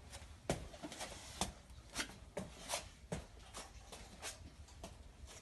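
A series of faint, irregular clicks and light knocks, about two or three a second, over a low background hum.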